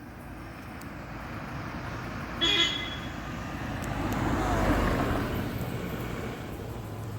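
Road traffic noise with one short vehicle horn toot about two and a half seconds in, then a vehicle passing, louder around four to five seconds in.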